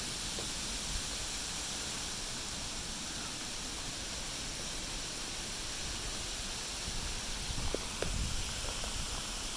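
Steady rushing hiss of a waterfall, with a few soft knocks and bumps about three quarters of the way through.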